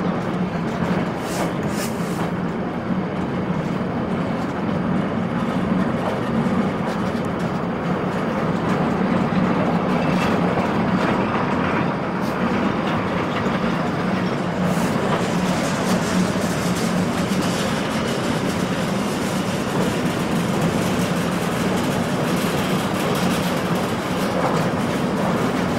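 Meter-gauge passenger train rolling steadily across an old steel rail bridge, heard from aboard a coach: a continuous rumble of wheels on track with scattered clicks and rattles.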